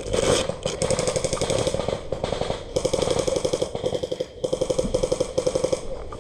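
Airsoft electric gun firing on full auto, a rapid even rattle of shots in three or four bursts of about a second each.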